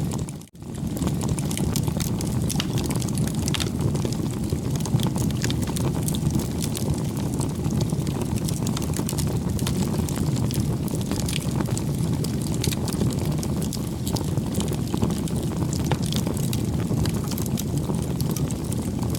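Wood bonfire burning: a steady low rush of flame with frequent small, sharp crackles and pops of burning wood. The sound drops out for a moment about half a second in.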